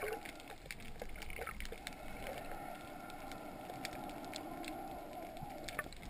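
Underwater ambience picked up by a camera in its housing: a steady wash of water noise with many small, scattered clicks.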